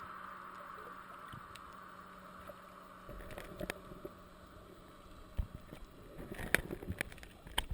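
Muffled water sounds with scattered sharp clicks and knocks, which come thicker and louder near the end.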